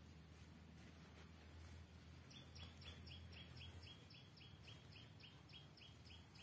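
A bird calling faintly outdoors: a fast, even run of short, high chirps, about four a second, starting a couple of seconds in.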